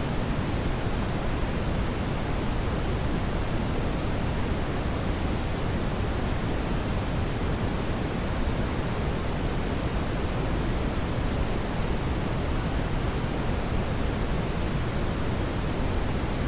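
Steady brown noise: an even, unbroken rushing hiss weighted toward the low end.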